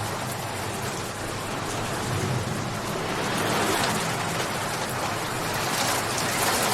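Steady, dense rainfall hissing down on surfaces, swelling louder a couple of times.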